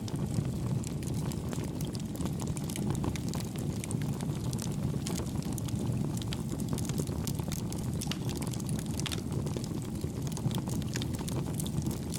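Campfire burning: a steady low rumble of flames with many small, soft crackles and pops of burning wood scattered throughout.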